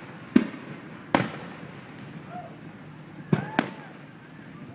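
Aerial fireworks shells bursting: four sharp bangs, two about a second apart near the start, then a close pair a quarter-second apart about three and a half seconds in, each trailing off in a short echo.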